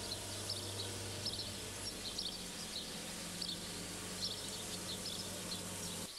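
Small songbirds chirping repeatedly in short high notes, over a steady low hum.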